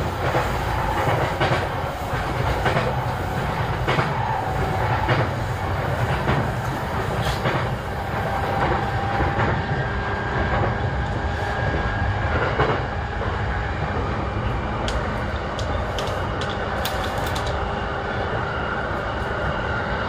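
JR East E233-7000 series electric train running at speed, heard inside the motor car: a steady rumble with a constant whine from the drive gear. Wheels click over rail joints about once a second in the first half.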